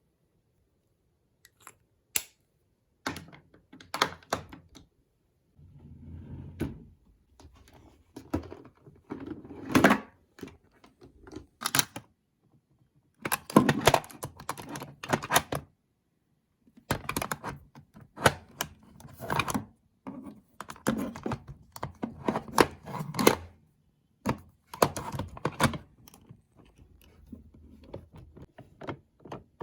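Makeup products handled close to the microphone: plastic cases and caps clicking, tapping and being set down. The sounds come in short clusters of sharp clicks separated by brief pauses.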